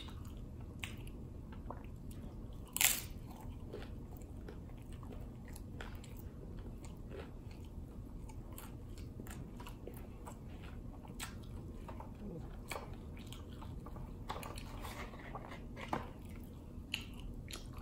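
Close-up chewing of a crunchy hard-shell taco: a run of small crunches and mouth clicks, with one much louder crunch about three seconds in.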